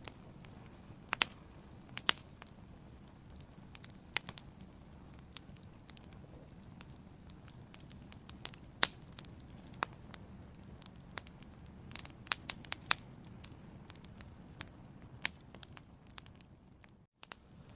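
Wood fire burning in a fireplace: irregular sharp crackles and pops over a low steady hiss, with a brief cut to silence near the end.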